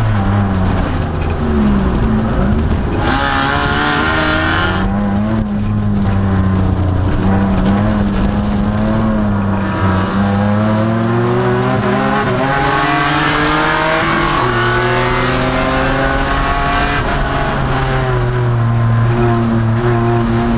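2002 Nissan Maxima race car's 3.5-litre V6 engine on track, its pitch rising under acceleration and dropping off several times as the driver lifts and shifts. A brief burst of hiss-like noise comes about three seconds in.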